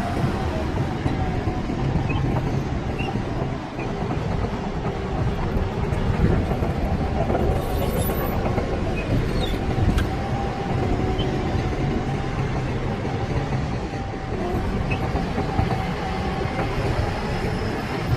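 Shantui DH17C bulldozer's diesel engine running steadily under load, a dense low rumble with a steady whine over it.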